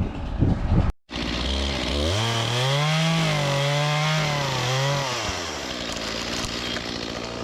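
Chainsaw engine revving up after a brief break about a second in, held at speed for about three seconds with a wavering pitch, then dropping back to a low idle.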